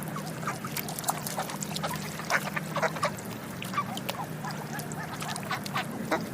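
A flock of ducks quacking: many short calls overlapping in quick succession, over a steady low hum.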